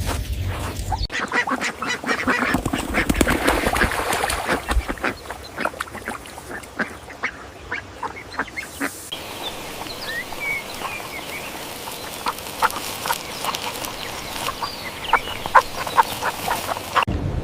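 Ducks quacking in a run of short calls, thickest in the first half. From about halfway, thin high chirps of small birds join in.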